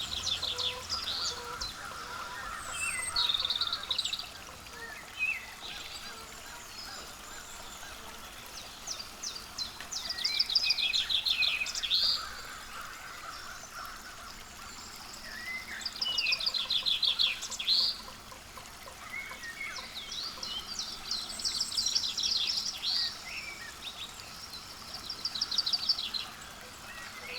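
Songbirds singing outdoors: a song of rapid, high repeated notes, about one to two seconds long, comes back every five or six seconds, with scattered short chirps between.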